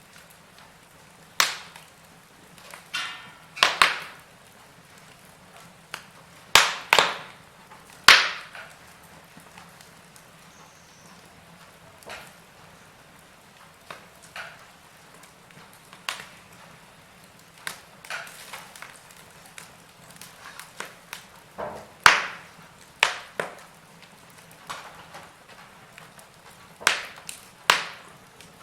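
Wood fire crackling: irregular sharp pops and snaps, some loud, coming a second or several seconds apart.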